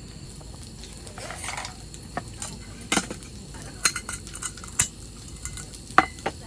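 Metal utensils clinking and knocking against dishes and cookware: a short scrape about a second in, then a string of sharp separate clinks, the loudest near the end with a brief ring.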